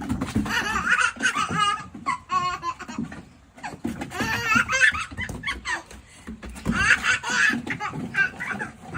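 A baby laughing hard in several bouts of belly laughter, each a run of quick pitched laughs with short pauses between.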